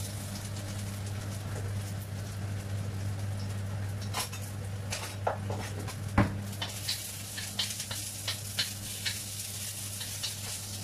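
Ginger and garlic sizzling in hot oil in a wok, with a hiss that grows stronger in the second half. Utensil knocks and scrapes against the wok come through repeatedly, the loudest about six seconds in, over a steady low hum.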